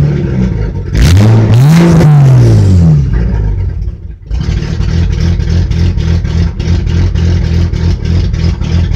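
BMW M20B25 2.5-litre straight-six blipped once, the revs rising and falling back about one to three seconds in, dipping briefly, then settling into a rough, uneven idle. The owner puts the rough idle down to a heavy cam, no O2 sensor and limited fuelling.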